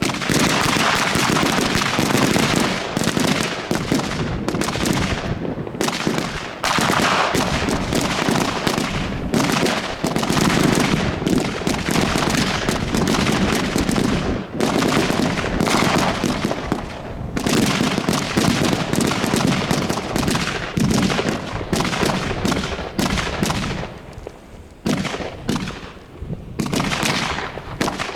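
Fireworks going off in a dense, rapid barrage of bangs and crackling for most of the time, thinning into separate bangs with short gaps near the end.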